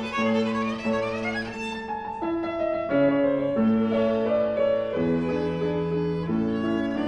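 A viola and piano playing together live: the viola holds long bowed notes, moving to a new pitch every second or so, over the piano.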